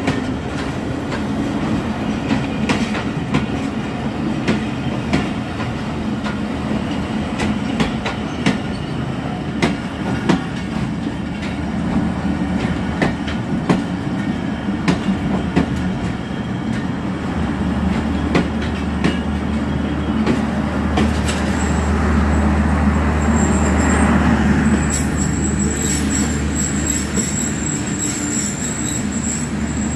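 Passenger coaches of an arriving train rolling past on the adjacent track, their wheels clacking over rail joints. From about halfway a low steady hum sets in, and near the end a high thin squeal from the wheels as the train slows to a stop.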